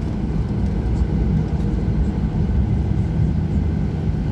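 Boeing 737-800 jet engines giving a steady low rumble with a constant hum.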